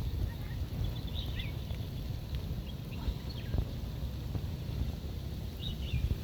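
Wind rumbling on the microphone, with a few faint high bird chirps about a second in, around three seconds, and near the end.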